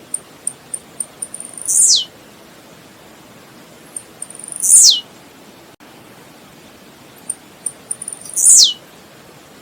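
Blue-black grassquit (tiziu) singing three times, a few seconds apart. Each song is a short, sharp note sliding steeply down in pitch, led in by a few quick, faint high ticks, over a faint steady hiss.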